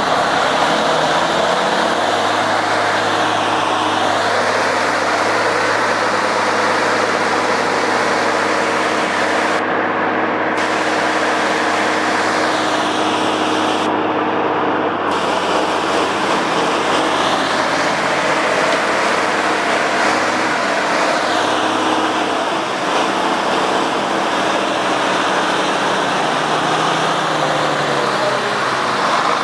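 A vehicle engine runs steadily, with a constant engine note under a rushing noise. The note drops a little about two-thirds of the way through.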